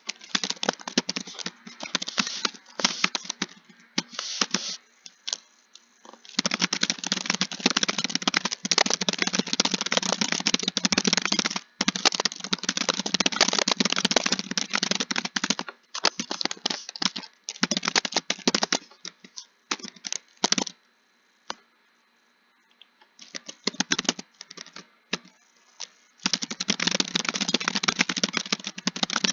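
Fast typing on a computer keyboard: dense runs of key clicks broken by short pauses, with a longer pause about two-thirds of the way through.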